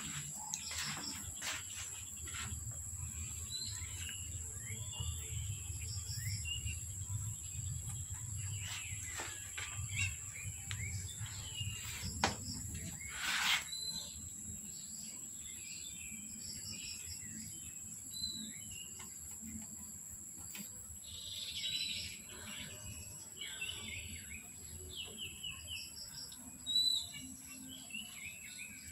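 Small birds chirping in short, scattered calls, over a steady high-pitched whine, with a brief knock a little under halfway through.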